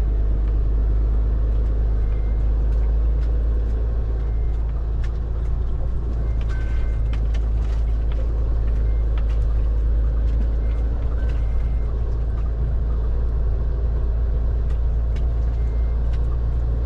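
Diesel engine of a 500-horsepower JH6 truck pulling steadily at low speed on a muddy gravel road, heard as a deep, even drone with scattered light clicks and rattles.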